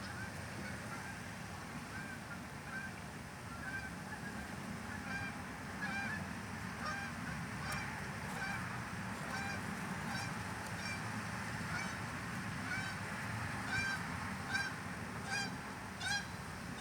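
Repeated short honking bird calls, roughly one a second, over a steady low rumble. The calls grow stronger in the second half.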